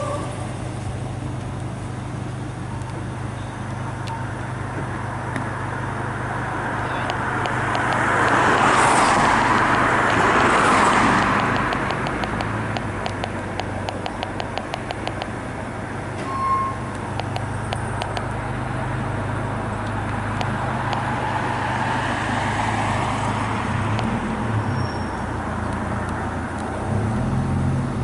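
Road traffic: a steady low engine hum, with a vehicle passing close by about nine seconds in. A fast run of light ticks follows.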